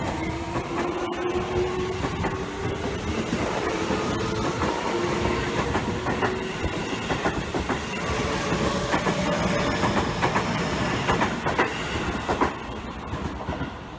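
Seibu 20000 series electric train running close past, with its motor whine rising in pitch and wheels clacking over rail joints. The sound falls away near the end as the last car goes by.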